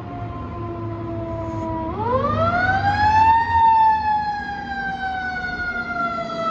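Fire engine siren sounding as the engine responds to a call. It sags slowly in pitch, winds steeply back up about two seconds in, then slowly falls away again, over the rumble of the truck's engine.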